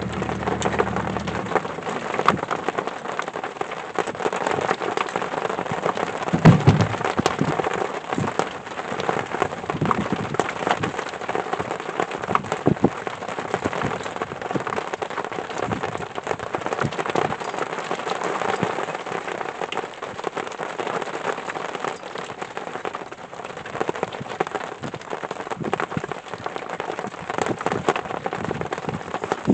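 Steady rain falling, with many close drops ticking on a surface. A single low thud stands out about six seconds in.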